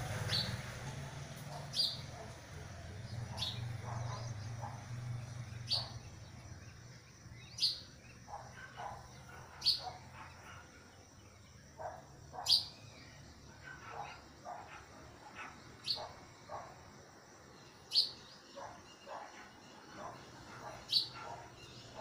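Small bird calling: about ten sharp, high chirps, one every two seconds or so, with softer, lower chirping in between.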